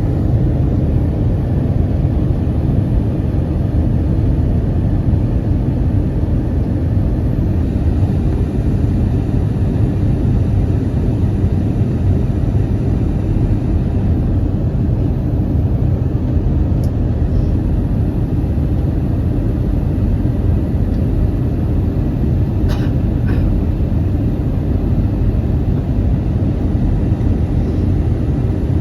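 Steady low cabin rumble of an Airbus A321-231 in flight, its IAE V2500 engines and airflow heard from inside the cabin. A couple of faint clicks sound over it, about two-thirds of the way in and again shortly after.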